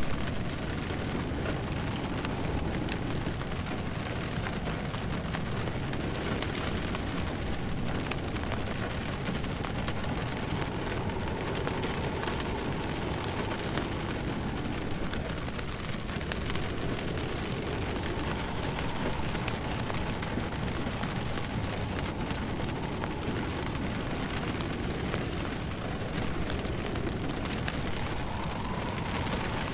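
Steady rain pattering on a surface, mixed with a crackling fireplace: a constant hiss of rain with many small pops and crackles from the burning wood.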